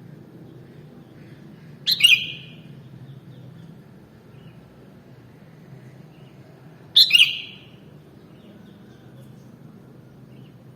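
Sooty-headed bulbul (kutilang) giving two short calls about five seconds apart, over a steady low background noise.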